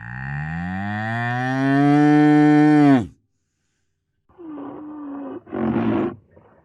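A cow gives one long, loud moo lasting about three seconds, its pitch rising slightly and then dropping as it cuts off. After a second of silence, a different animal starts a series of short, rough calls.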